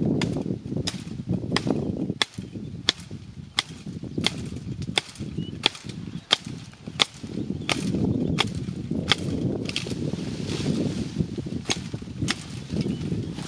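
Steady rhythmic chopping on wood, about three sharp strokes every two seconds, over a low rumbling noise.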